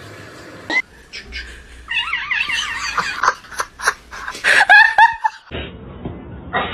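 A cat meowing in drawn-out calls that waver in pitch, loudest about two-thirds of the way through, with a few sharp clicks among them.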